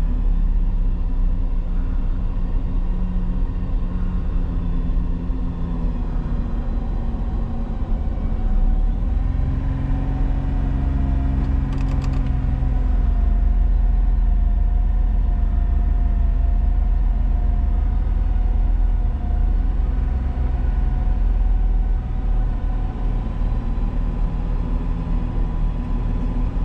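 A vehicle engine running steadily. Its pitch steps up and down a few times as the revs change.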